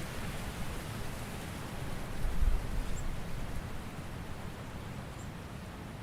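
Autumn forest ambience: a steady hiss of wind and rustling leaves, with a brief low rumble about two and a half seconds in and a few faint, short, high chirps.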